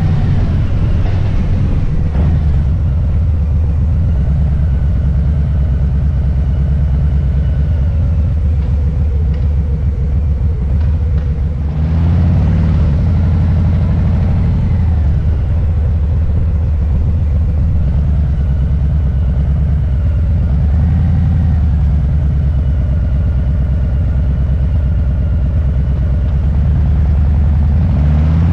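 Harley-Davidson Low Rider S's Milwaukee-Eight V-twin rumbling as the motorcycle is ridden. The engine note eases off briefly about ten seconds in and picks up again about two seconds later.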